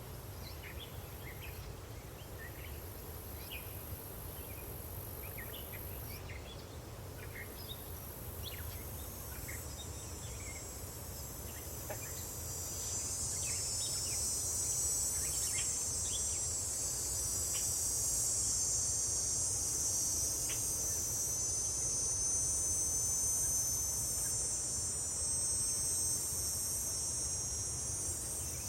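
Countryside insect ambience: crickets chirping steadily, joined about twelve seconds in by a louder, high, steady buzz of cicadas, with scattered short bird chirps and a low distant rumble underneath.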